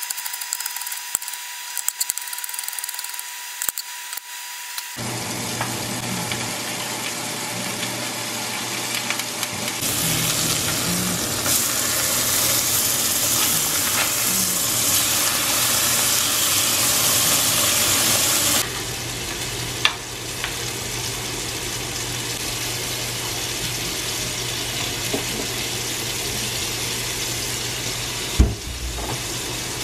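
Food sizzling as it fries in a pan, over a steady low hum, after a few seconds of faint clicking. The sizzle is loudest from about ten seconds in until just past the middle, then settles, with a sharp click and a single thump later on.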